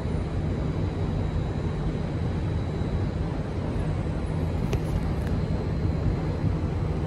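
Kawasaki & Nippon Sharyo C751B electric train pulling out of an elevated station, a steady low rumble. There are two faint clicks about five seconds in.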